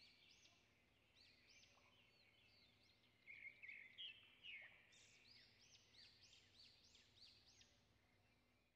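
Faint birdsong: quick, arching chirps repeated through, a little louder about three to five seconds in.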